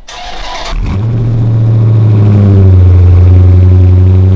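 Cold start of a 2018 Dodge Challenger Scat Pack's 392 Hemi 6.4-litre V8. The starter cranks briefly, the engine catches under a second in, and it settles into a loud, steady fast idle.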